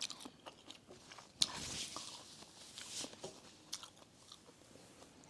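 A person eating close to the microphone: chewing with small scattered mouth clicks, and a soft hissy stretch from about a second and a half in to about three seconds.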